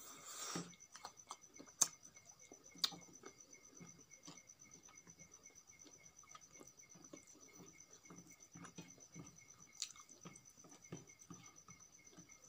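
Close-miked chewing of a mouthful of crispy fried chicken, soft and irregular, with fingers squishing and mixing rice and chutney on a steel plate. A few sharp clicks stand out, about two and three seconds in and again near the end. A faint steady high whine runs underneath.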